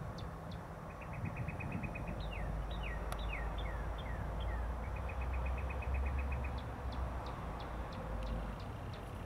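A songbird singing rapid trills and a run of short falling whistled notes, over a low steady rumble from the approaching EMD GP39 diesel locomotive and its train. A high ticking repeats a few times a second near the end.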